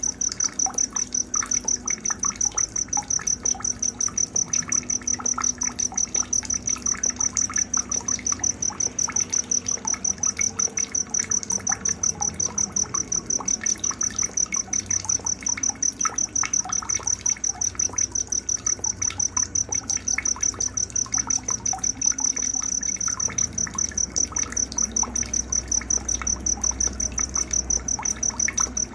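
A night insect chirping in an unbroken, even, high-pitched rhythm of about three chirps a second, with faint scattered bird calls beneath it.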